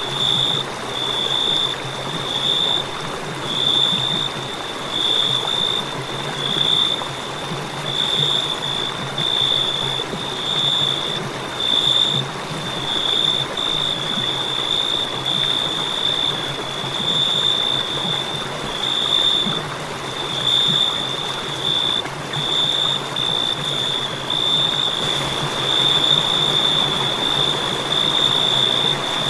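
Crickets chirping in a continuous high-pitched trill that swells and fades in a regular pulse about once every second or so, over a faint steady hiss.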